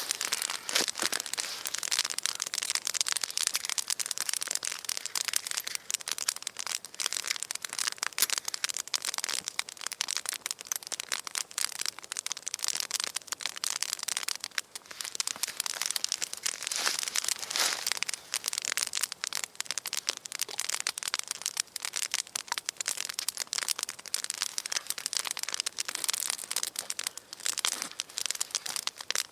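Campfire burning, lit with a homemade fire starter: a dense, continuous crackle of small pops.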